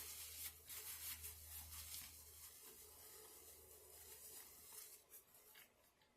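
Faint rustling and scraping noises in irregular bursts over a low steady hum; the rustling dies away about five seconds in.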